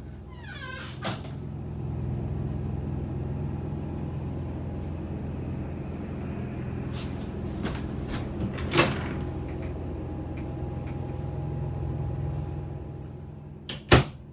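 A steady low mechanical hum, with a few short knocks: one about a second in, one about nine seconds in, and a pair near the end.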